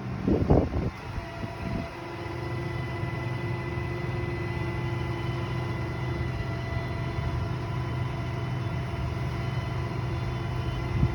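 A vehicle engine running steadily with a low hum and a few steady tones, after a short loud rumble about half a second in and another right at the end.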